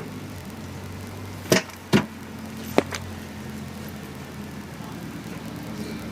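Subaru 2.5-litre naturally aspirated flat-four running steadily at low revs, with three sharp clicks or knocks about one and a half, two and three seconds in.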